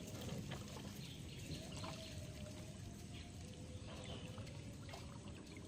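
Faint trickling and lapping of floodwater, with a few small drips or splashes.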